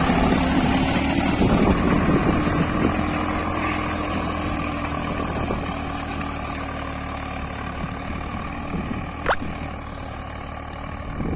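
Swaraj 855 tractor's three-cylinder diesel engine running steadily while pulling a 16-inch Lemken plough, slowly growing fainter. A single sharp click about nine seconds in.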